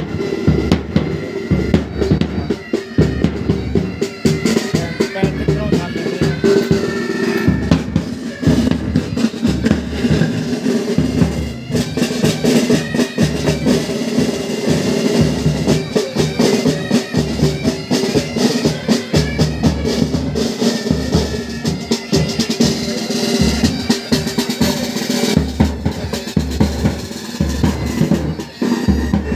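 Military pipe band playing: bagpipes with their steady drones, over rattling snare side drums and a bass drum beat.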